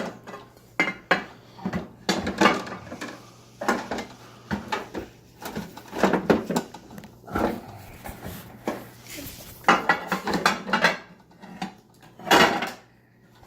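Dishes and cutlery clinking and clattering irregularly as a dishwasher is unloaded and the items are put away, with a sharp clatter every second or so.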